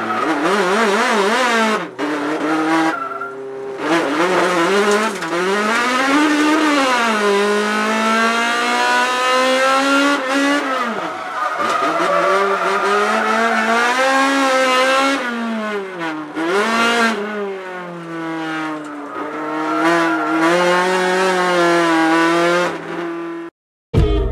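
Toyota AE86's engine heard from inside the cabin while drifting, the revs rising and falling through the corners, with quick back-and-forth throttle stabs in places. It cuts off just before the end, where music begins.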